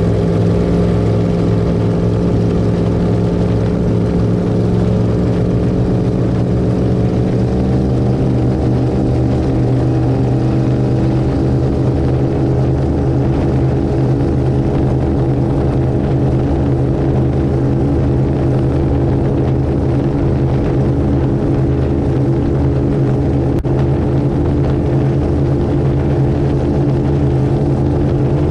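Twin V8 engines of an Avanti 33 power boat running steadily under load, with the pitch rising a little about seven seconds in and then holding.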